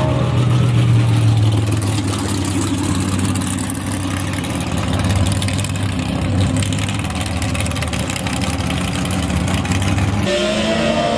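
Racing engine running steadily with a low, even drone, which changes abruptly about ten seconds in to a higher, wavering tone.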